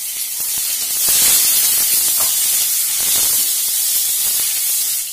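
Onions, green chillies, garlic and dry red chillies sizzling in hot oil in a steel kadai. The hiss is loud and steady and swells about a second in.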